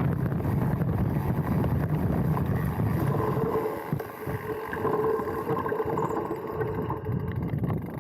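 Mountain bike riding down a dirt trail, heard from a handlebar-mounted camera: wind buffeting the microphone and tyre and trail rumble. About three seconds in the rumble eases and a steady whine from the bike comes in and lasts most of the rest.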